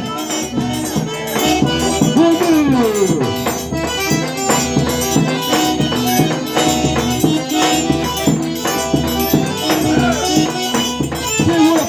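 Instrumental forró: an eight-bass button accordion plays the melody in held notes over steady rattling percussion such as a shaker.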